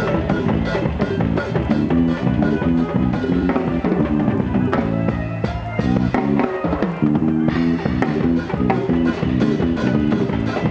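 Worship band playing live with electric guitar, bass and drum kit over a steady beat. The cymbals drop out for about two seconds in the middle, then the full band comes back in.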